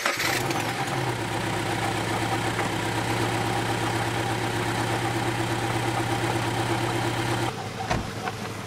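Scion FR-S's 2.0-litre flat-four boxer engine idling steadily just after being started, its idle settling slightly lower about a second in. Near the end the sound suddenly becomes quieter.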